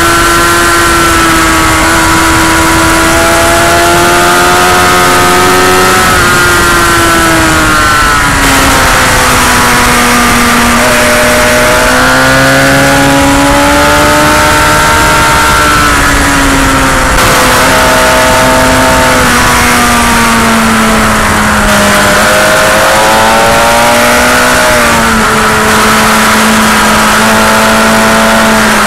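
Motorcycle engine on a racetrack lap, its pitch rising and falling as the bike accelerates out of and slows into corners, with a pitch drop about six seconds in and several more swings after. A loud, constant rushing noise runs under it.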